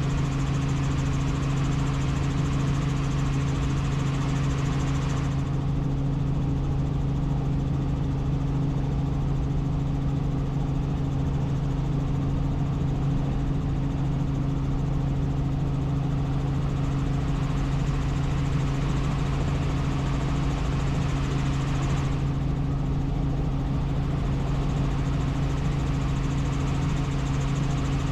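Helicopter in flight: a steady engine-and-rotor drone with a constant low hum. The higher hiss softens about five seconds in and comes back about three quarters of the way through.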